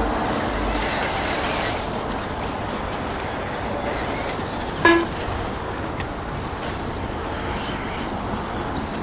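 Steady noise of electric RC buggies racing around the track. About five seconds in comes one short, sharp electronic beep.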